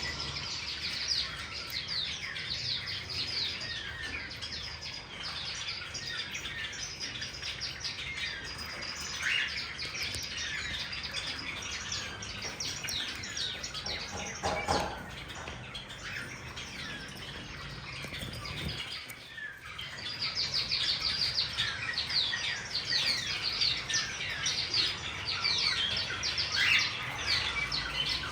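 A flock of cage birds, cockatiels among them, chirping and chattering without a break, many quick high calls overlapping. One lower call stands out about fourteen seconds in, and the chatter grows louder after about twenty seconds.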